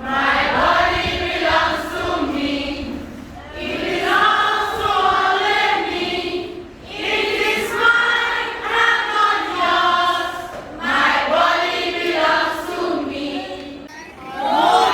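A group of voices singing together in unison, in about four long phrases with short breaks between them.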